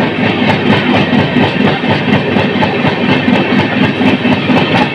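Express passenger train running at speed, heard from on board: a steady rumble of the coach with a regular clicking of the wheels over rail joints.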